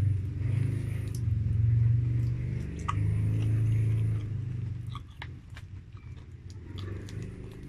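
Close-up eating sounds of someone chewing fried chicken, with a few sharp mouth clicks. Under it is a low droning hum, the loudest sound, which drops away about five seconds in.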